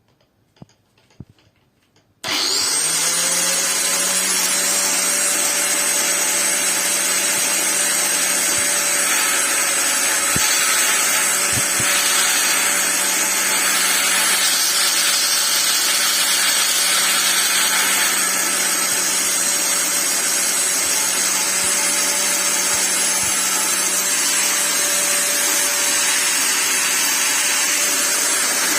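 Angle grinder switched on about two seconds in, its whine climbing quickly as the motor spins up, then running steadily at full speed.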